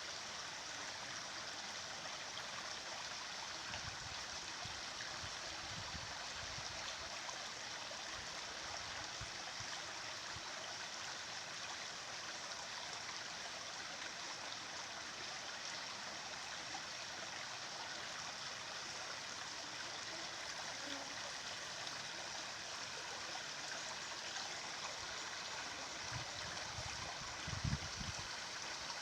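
Running water, like a stream: a steady, even rush and babble. A few soft low thumps come through about four seconds in and again near the end.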